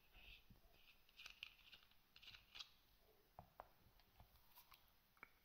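Faint, scattered clicks and light scraping from the small metal parts of a rebuildable vape tank atomizer being handled and screwed together.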